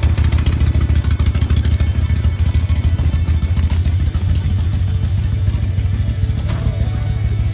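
A motorcycle engine running at low speed close by, a steady low rumble, as the bike creeps along looking for a place to park. A short click about six and a half seconds in.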